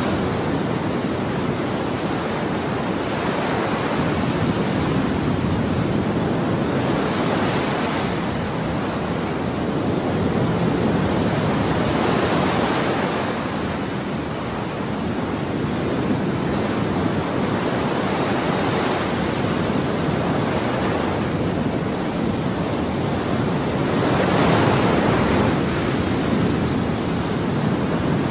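Ocean waves breaking and washing onto a shore: a continuous rush of surf that swells and eases every few seconds.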